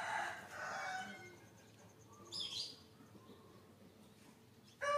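Birds chirping faintly, with one bright short chirp about halfway through, and a rooster starting to crow right at the end.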